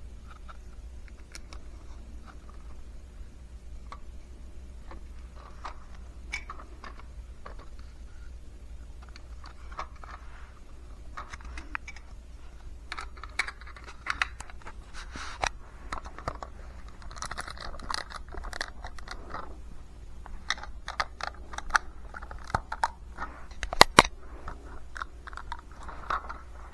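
Irregular small clicks and short crunchy rustles of something being handled close by, sparse at first and busier after about twelve seconds, over a steady low hum.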